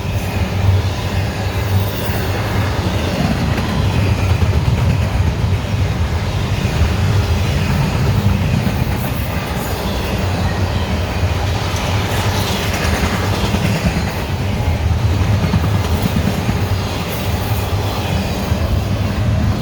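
Norfolk Southern freight train passing at speed, its wheels rolling steadily and loudly over the rails with a deep rumble.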